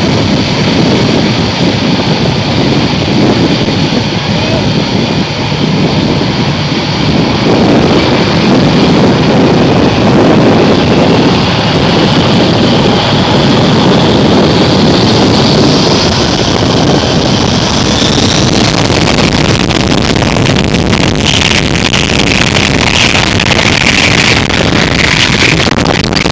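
Airbus A340's four jet engines at takeoff thrust: a loud, steady roar, with a whine that climbs in pitch around the middle and eases back a little after.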